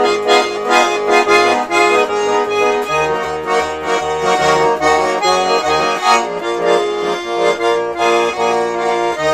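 Garmon (Russian button accordion) playing a folk-song interlude alone: a melody over rhythmically repeated bass chords.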